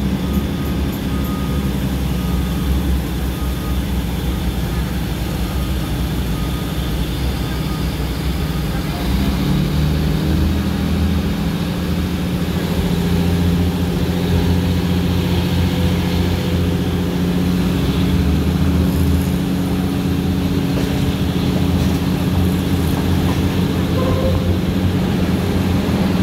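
Diesel-hauled express passenger train picking up speed, heard from aboard: a steady low drone of the engine with wheels running on the rails, growing a little louder and slightly higher about ten seconds in.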